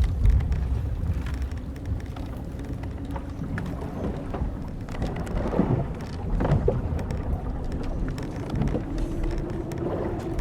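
Old wooden sailing ship creaking as it rocks: timbers and ropes give drawn-out creaks in the middle and a long low groan near the end, with scattered small knocks, over a steady rush of wind and sea.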